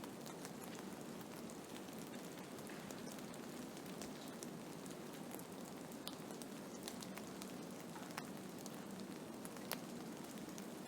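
Blizzard ambience: a steady hiss of wind-driven snow with scattered sharp ticks of snow and ice grains striking a surface.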